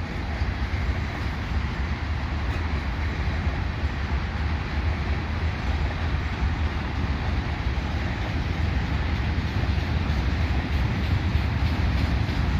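Loaded freight cars, gondolas full of scrap metal, rolling past: a steady low rumble of steel wheels on rail, growing a little louder toward the end.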